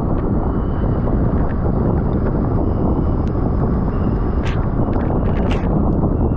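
Loud, steady wind rush on a camera microphone carried on a bicycle at racing speed, with a few short clicks scattered through it.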